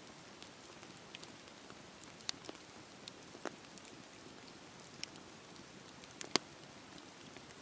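Wood campfire crackling: a soft steady hiss with irregular sharp pops and snaps, two of them louder, one about a third of the way in and one near the end.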